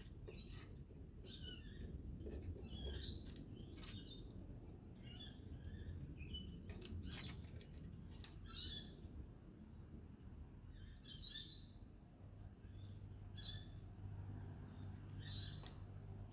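Short, high bird chirps repeating about once a second, the loudest a little past the middle and near the end, with sharp clicks scattered among them.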